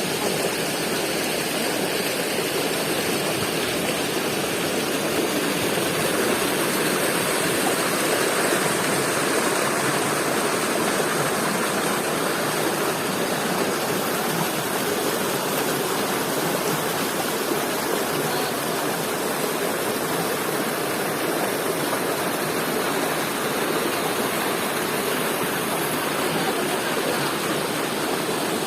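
Steady rush of fast-flowing water in a mountain stream tumbling over rocks, an even, unbroken roar.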